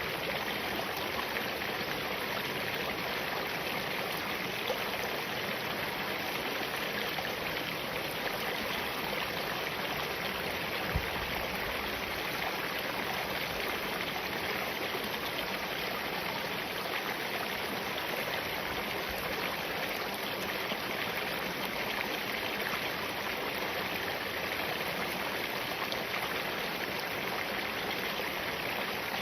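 Spring-fed mountain stream running steadily over and between rocks, with an even rushing of water. A single short low knock is heard about eleven seconds in.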